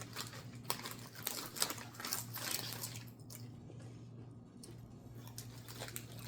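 Potato chips crunching as they are bitten and chewed: dense crisp crackles for about three seconds, then fewer and softer.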